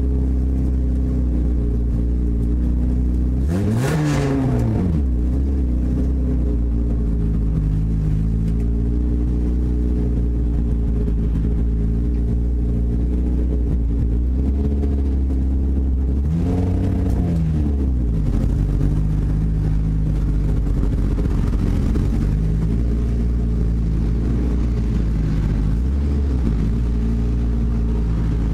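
Sprint car's 360 V8 engine running steadily at low revs, heard from the cockpit. Its pitch swells briefly as the throttle is blipped about four seconds in, again around seventeen seconds, and lightly near the end.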